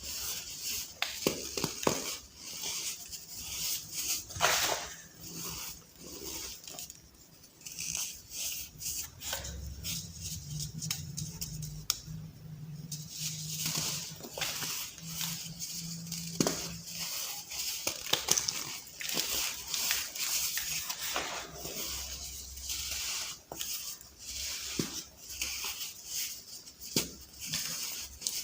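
Soft balls of pressed baking soda being crushed and crumbling: irregular, crisp, gritty crunches and crackles. A faint low hum runs for several seconds in the middle.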